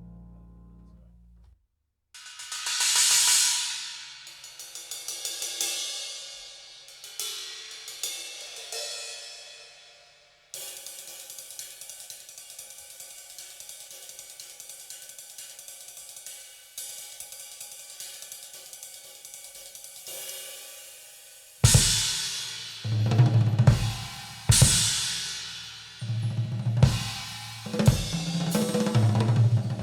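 Recorded music played through Elfton Vegas II four-way loudspeakers: after a brief pause, a drum piece opens with a cymbal swell and ringing cymbal strokes, then steady cymbal playing. About two-thirds of the way in, the full drum kit comes in with heavy kick and snare hits.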